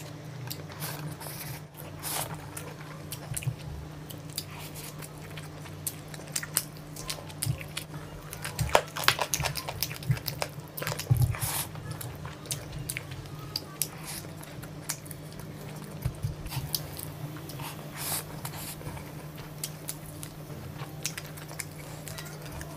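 Close-up chewing of a mouthful of chicken biryani eaten by hand: wet mouth sounds and irregular clicks, loudest about 9 to 11 seconds in, over a steady low hum.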